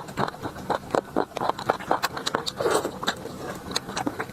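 Close-miked eating: chewing with a rapid run of wet mouth clicks and lip smacks.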